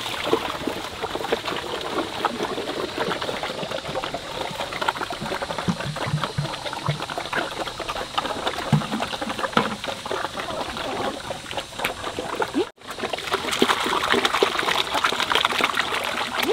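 Water running and splashing, a steady crackling rush of many small drops, broken by a short cut about 13 seconds in.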